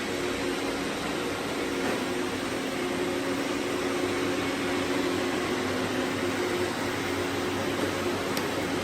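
Many robot vacuums running at once, a steady whirring hum with a few faint held tones in it.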